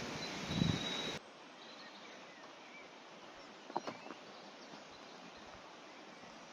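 Woodland ambience with faint birdsong over a steady outdoor hiss. The first second is louder rustling noise with a short high bird note, and it cuts off abruptly to the quieter background; a few sharp clicks come about four seconds in.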